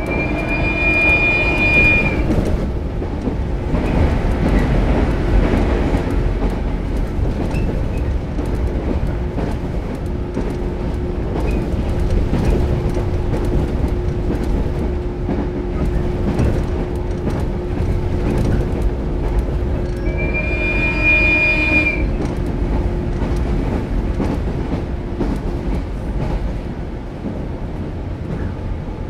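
Onboard running sound of a JR 115-series electric multiple unit motor car: a steady rumble of wheels on rail with a steady motor hum. Twice, near the start and again about twenty seconds in, a high-pitched ringing tone sounds for about two seconds.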